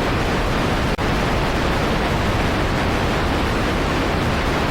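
Steady, dense rush of water, even and unbroken apart from a momentary dropout about a second in.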